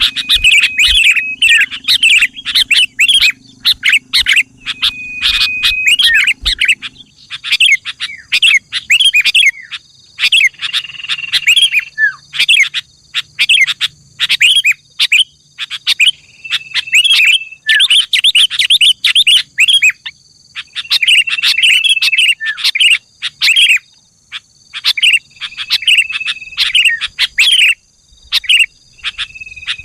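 Sooty-headed bulbul (kutilang) singing continuously in fast, chirpy warbled phrases. The song is broken every few seconds by a short held whistle note.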